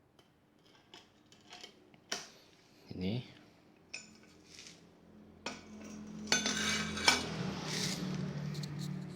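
Metal objects clinking and knocking as they are handled, a few separate knocks at first, then a denser, louder stretch of clattering from about halfway.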